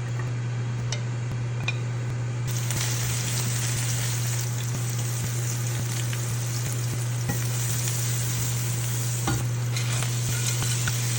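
Food frying in a pan: a steady sizzle that grows fuller and brighter about two and a half seconds in, with a few light clicks and a steady low hum underneath.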